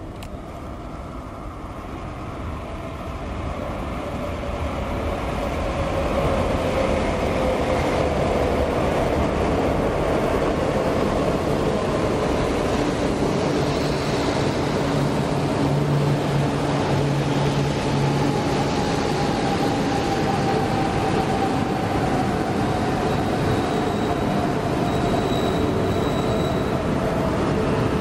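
JR East E4 series Max double-decker Shinkansen pulling into a station platform and slowing down. Its running noise grows louder over the first six seconds as it comes in, then holds steady with a slowly falling whine as it brakes toward a stop.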